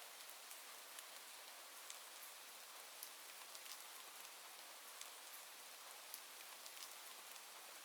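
Soft, steady rain hiss with scattered light ticks of individual drops.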